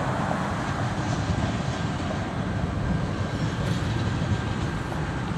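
Freight train's tank cars and covered hopper cars rolling past, a steady rumble of wheels on rail, with a pickup truck driving by at the start.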